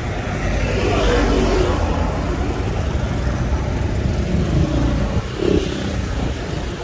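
Road traffic: vehicles passing close by, with engine and tyre noise over a steady low rumble that swells about a second in and again near the end.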